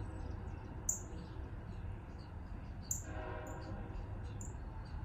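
Small birds chirping: short, sharp, high-pitched chirps repeated every second or so, over a steady low outdoor rumble.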